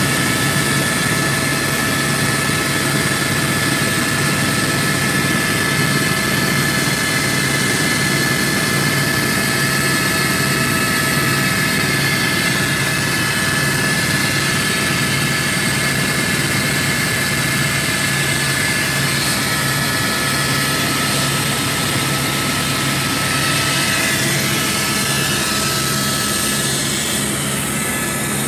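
Helicopter in flight heard from inside the cabin: a loud, steady turbine and rotor noise with a constant high whine over it.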